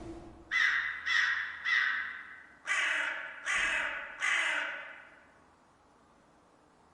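Crow cawing: six harsh caws, a group of three followed by three louder ones, then it falls quiet about five seconds in.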